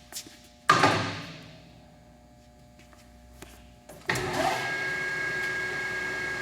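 A loud clunk just under a second in that dies away over about a second. About four seconds in, the Sunmaster ML 1740 lathe starts up and runs steadily, a hum with a couple of thin high whining tones.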